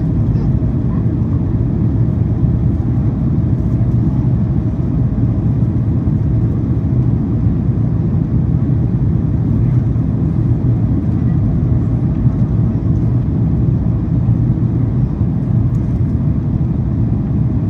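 Cabin noise of a Boeing 767-400ER airliner in flight on its descent: a steady, loud low rumble of airflow and engines that does not change.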